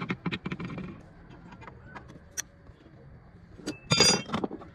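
A run of sharp clicks and light metallic clatter, like small parts or tools being handled, with a single click in the middle and a louder, briefly ringing metallic rattle near the end.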